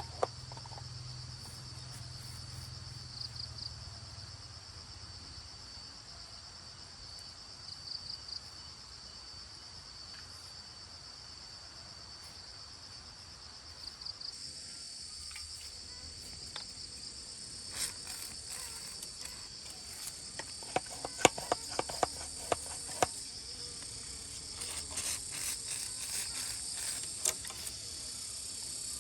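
Insects chirring steadily in a high, pulsing drone, thickened by a second, higher chorus about halfway through. Runs of sharp knocks or taps come in the second half.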